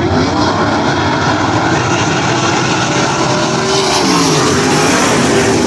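A pack of sprint cars racing at full throttle: several engines at once, their pitch rising and falling as they pass.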